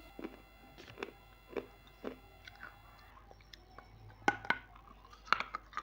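Close-miked chewing of something crunchy, with soft clicks about twice a second. About four seconds in a fresh bite brings several sharp, loud crunches.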